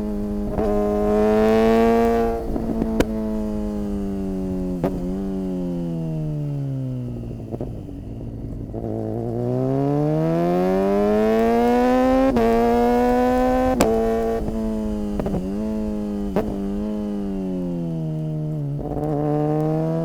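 Suzuki GSX-R 600 inline-four engine on the move, its pitch climbing and dropping with the throttle. It eases down to a low note around the middle, then pulls up again. Short sharp cracks mark each quickshifter gear change.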